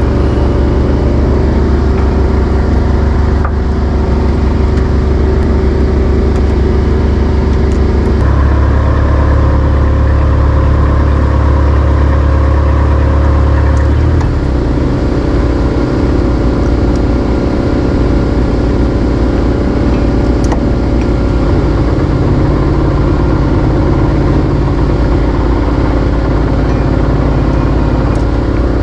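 Fishing boat's engine running steadily under way, loud and droning, its note changing about eight seconds in and again about fourteen seconds in.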